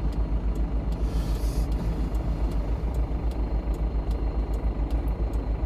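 GAZon Next truck's diesel engine idling at a standstill in a traffic queue, a steady, evenly pulsing low throb. A brief hiss comes about a second in.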